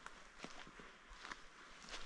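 Footsteps of a single hiker walking quietly on a forest trail: a few soft, short crunching steps, about one every half second.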